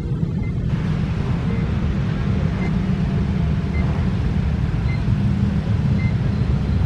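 Train passing a level crossing: a steady heavy rumble, with the noise of the passing cars filling out about a second in. A short high tone repeats about once a second throughout, typical of the crossing's warning signal.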